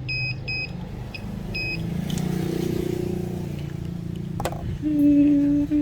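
Four short electronic beeps, then the low rumble of a vehicle that rises and fades, a click, and a steady hummed note near the end.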